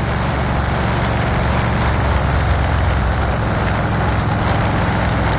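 Vehicle engine running steadily under way, with constant road and wind noise.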